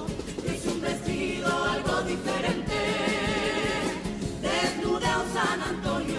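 Cádiz carnival comparsa choir singing in harmony, the voices held with vibrato over a steady percussion beat.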